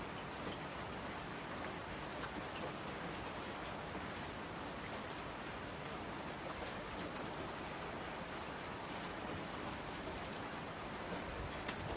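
Steady rain falling, an even hiss with an occasional sharper drop tick.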